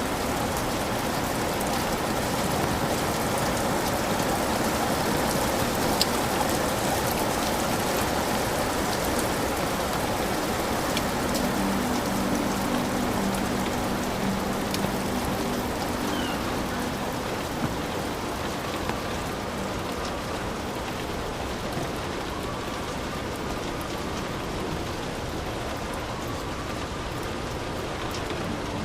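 Heavy rain falling steadily on a hut, a dense even hiss with scattered sharper drop hits.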